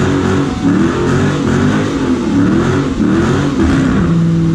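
A car engine being revved again and again, its pitch rising and falling roughly once a second, then holding a steady note near the end.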